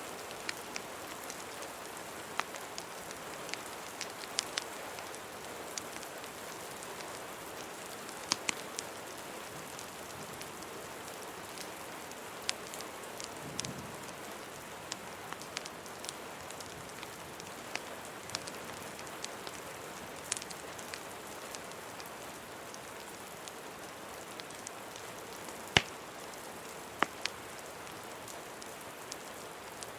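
Steady rain ambience blended with a wood fire crackling: an even hiss of rain under scattered sharp pops and snaps, the loudest pop late on.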